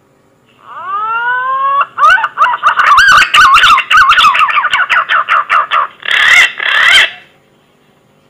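Green pigeon (punai) lure call: a rising whistle, then a fast run of warbling whistled notes with clicks through them, and two louder notes before it stops about seven seconds in.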